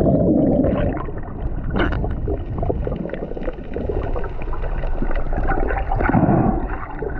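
Muffled water gurgling and bubbling with scattered small clicks, heard through a camera underwater.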